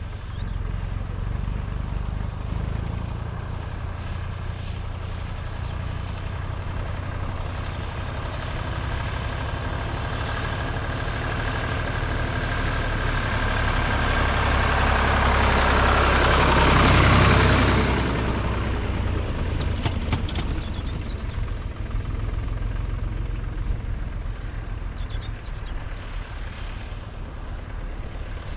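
Vintage tractor diesel engines running; one tractor grows steadily louder, passes close just past the middle, then fades as other engines keep running.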